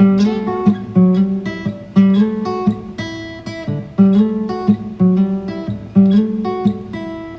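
Acoustic guitar playing on its own: picked single notes and chords, with a strong strum about once a second.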